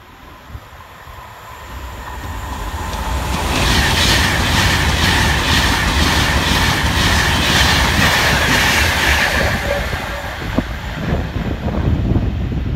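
A Class 390 Pendolino electric express passes at speed. Its rush of noise builds, then holds loud for about six seconds, with wheels clicking over the rail joints about twice a second and a steady high whine, and fades near the end.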